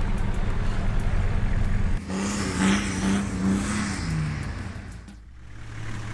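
A 4WD vehicle's engine running at a steady idle. About two seconds in the sound changes to a pulsing hum that falls away, dips briefly about five seconds in, and a steady engine idle returns.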